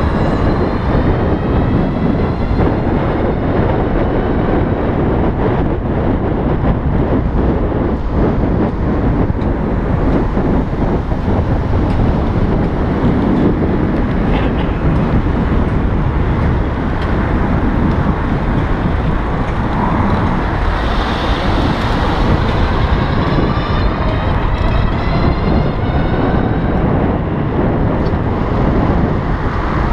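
Riding noise from an electric bicycle on the move: a steady rush of wind and road noise, with faint whines that glide up and down in pitch.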